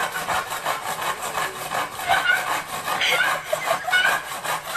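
Handsaw cutting through a wooden board with steady, repeated back-and-forth strokes, the teeth rasping through the wood.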